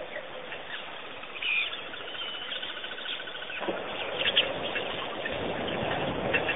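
Wild birds chirping and calling, with a short rapid trill near the middle. A steady rushing noise comes up suddenly a little past halfway and stays under the calls.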